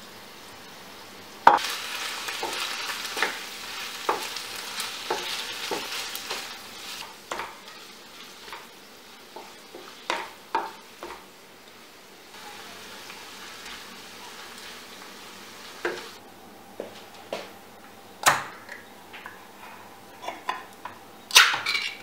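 Food sizzling in a hot pan while a utensil stirs it, knocking and scraping against the pan. The sizzle starts suddenly with a loud knock about a second and a half in and dies down after several seconds, leaving scattered taps and a faint hiss.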